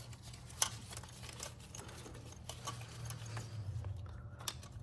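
Light, scattered clicks and plastic rattles of wiring-harness connectors being handled and plugged onto fuel injectors, over a steady low hum.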